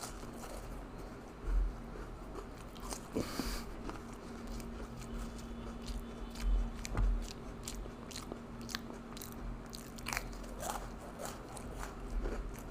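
Oreo sandwich cookies being bitten and chewed close to the microphone: many irregular crunches and crackles, with a few louder thuds, over a faint steady hum.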